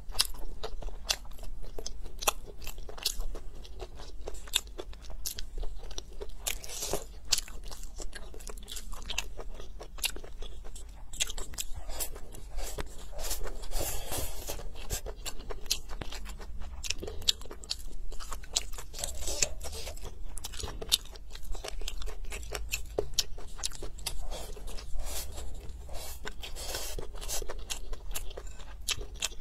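Close-miked chewing of rice and stir-fried food, with frequent sharp crunches from crisp pieces such as sour long beans and chicken gizzards and wet chewing between them. The sound grows busier about halfway through as more food is shoveled into the mouth with chopsticks.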